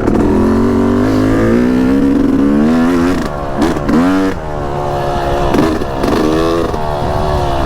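Yamaha YZ250X single-cylinder two-stroke dirt bike engine running, its pitch rising and falling with the throttle, with a quick rev blip about four seconds in.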